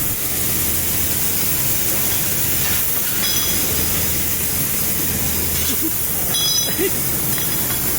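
Steady machine hiss over a low hum, with two short high-pitched tones about three and six and a half seconds in.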